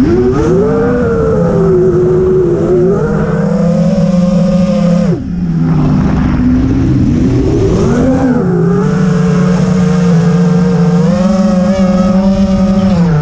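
Racing quadcopter's four brushless motors (Lumenier RX2206 2350KV on 5-inch three-blade props) whining, the pitch rising and falling with throttle. About five seconds in the throttle is chopped and the whine drops sharply before spinning back up.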